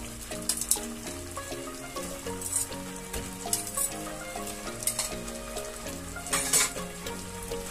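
Chicken wings sizzling in a pan of butter-garlic sauce as a spatula scrapes and turns them several times. The loudest scrape comes about six and a half seconds in. Background music plays underneath.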